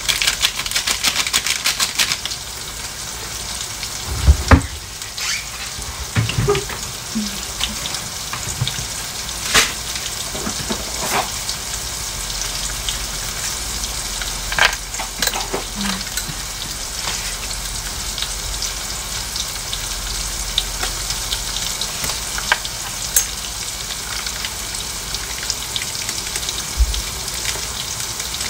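Garlic, onion, chicken liver and gizzard sizzling steadily in oil in a wok, with stirring clatter in the first couple of seconds. A few sharp knocks cut through, the loudest about four seconds in.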